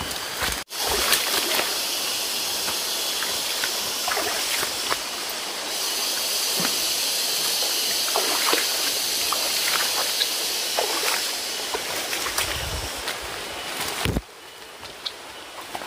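Running, splashing water with scattered rustles and knocks over a steady high hiss. It breaks off for an instant about half a second in and drops suddenly quieter near the end.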